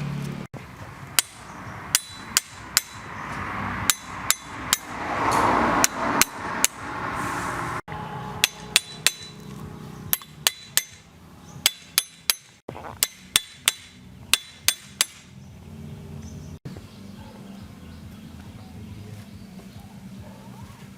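A hammer striking metal, sharp ringing blows in quick runs of two to four. The strikes stop about two-thirds of the way through, leaving a low steady hum.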